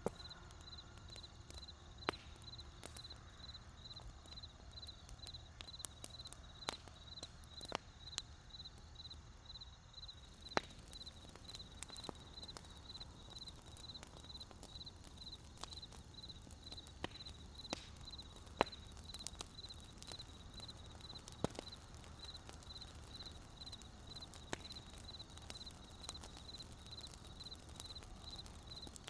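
Wood fire crackling with irregular sharp pops and snaps, a few standing out louder. Behind it runs a steady, evenly pulsing high chirp.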